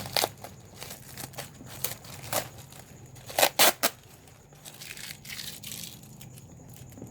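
Bubble wrap being popped by hand: irregular sharp pops with crinkling of the plastic sheet between them. The loudest is a quick pair of pops about three and a half seconds in, and the pops thin out near the end.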